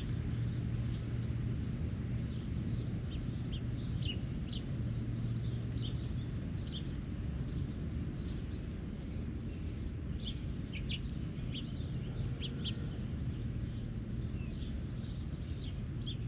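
Birds chirping with short, sharp calls, scattered and irregular, over a steady low rumble.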